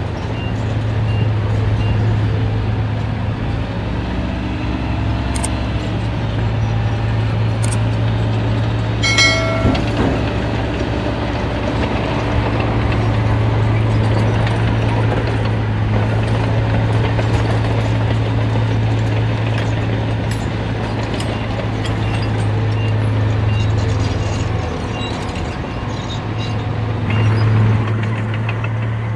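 Heavy diesel construction machinery running steadily with a deep, constant engine hum. About nine seconds in, a brief high squeal sounds over it.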